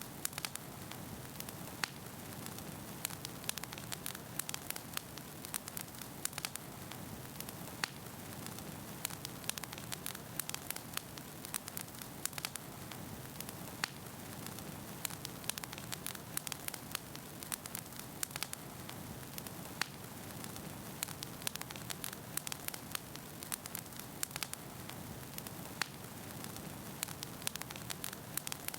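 Wood fire burning in a fireplace: a steady low hiss of the flames with frequent sharp, irregular crackles and pops from the burning logs.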